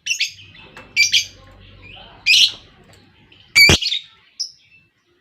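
Lovebirds calling in short, shrill chirps and squawks, about five separate calls, the loudest in the middle and about three and a half seconds in.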